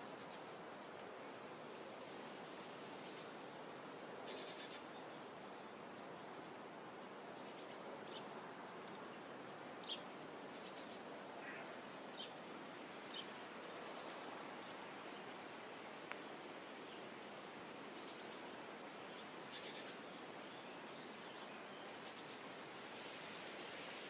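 Small birds chirping at a shoreline, short high calls scattered throughout, with a quick run of three about halfway through and one sharp, louder chirp near the end, over a steady soft background hiss of outdoor ambience.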